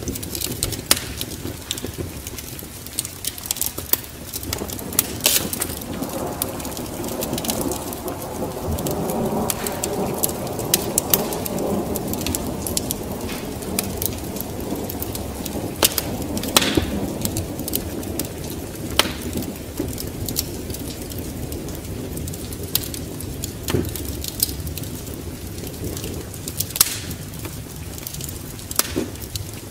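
Wood fire crackling in a fireplace, sharp pops scattered throughout, over a bed of rain and a low rumble of thunder that swells through the middle.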